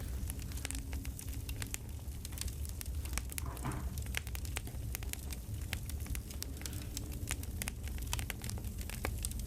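Campfire crackling: scattered snaps and pops over a low steady rumble, with a brief rustle about three and a half seconds in.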